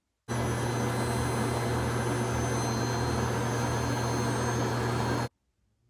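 Vacuum cleaner motor running steadily for about five seconds, a rush of air with a low hum and thin high whines, starting and cutting off abruptly.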